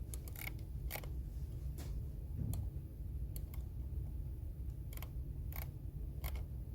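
Computer keyboard keys clicking in scattered, irregular taps, about ten over the stretch, over a steady low background hum.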